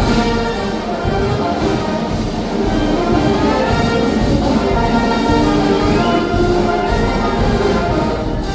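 Brass band playing, with trumpets and trombones holding sustained notes over a heavy low bass.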